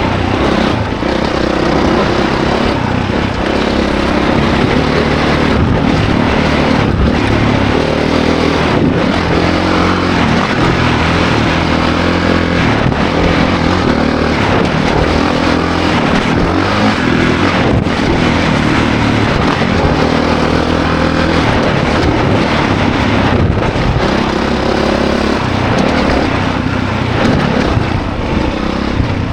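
2024 Honda CRF450 dirt bike's single-cylinder four-stroke engine under hard riding, its pitch rising and falling with throttle and gear changes, with brief dips every second or two.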